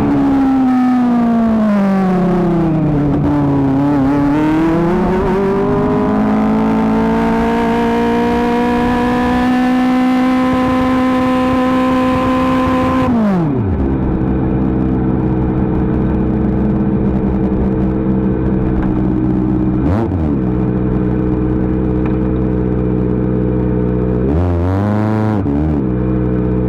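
Kawasaki ZX-25R's 249 cc inline-four running through an Akrapovic GP exhaust: the revs fall, climb again and are held high and steady for several seconds, then drop sharply to idle about halfway through. It idles steadily, with one short blip of the throttle and a few quick revs near the end.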